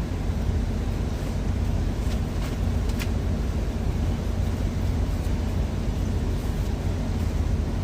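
Steady low rumble of an idling truck engine, with a few faint clicks about two to three seconds in.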